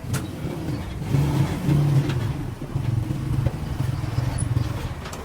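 A vehicle engine running with a low rumble that swells about a second in, with a few light clicks over it.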